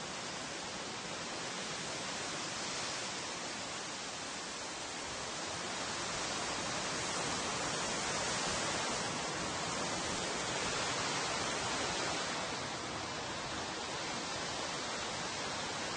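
Wind blowing through tree foliage: a steady rushing rustle of leaves that swells and eases in gentle gusts, strongest about halfway through.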